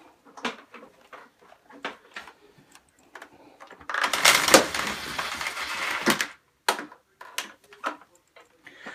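Scattered light clicks and knocks of something being handled, with a rustling, scraping noise about four seconds in that lasts about two seconds.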